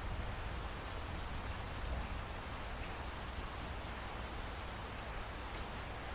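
Waterfall: a steady rush of falling water with a deep rumble underneath.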